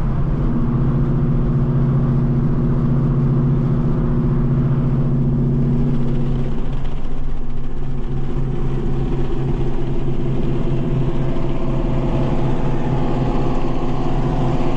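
Supercharged Mustang GT's V8 droning steadily at cruise, heard from inside the cabin over road rumble; its pitch drops slightly about halfway through.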